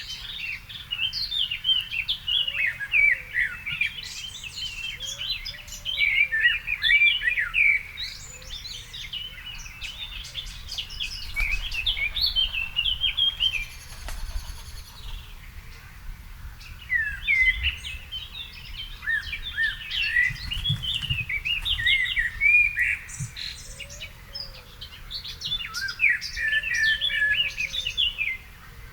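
Several songbirds singing at once in an evening garden chorus: a dense, overlapping run of quick high chirps and trills, with a faint lower call repeating underneath.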